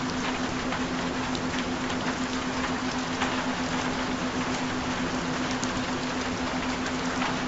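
Steady rain with scattered drop ticks, over a constant low pitched tone that holds throughout.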